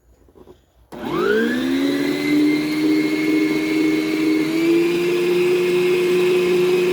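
Electric planetary stand mixer switched on about a second in: its motor spins up with a quickly rising whine, then runs steadily while beating cake batter. It steps up slightly in pitch near the middle as it is set to second speed.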